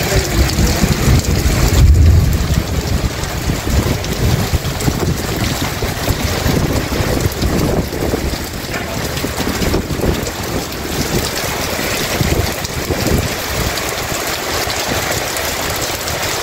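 Heavy rain pouring onto pavement and roofs, a dense steady hiss, with a deep low rumble that swells in the first few seconds and is loudest about two seconds in.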